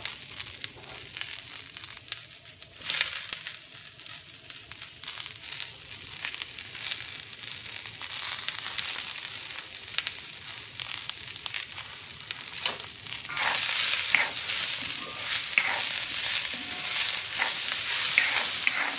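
Chopped vegetables sizzling in a hot wok. The sizzle grows louder about halfway through. Near the end a wooden spoon stirs and scrapes them, adding quick clatters.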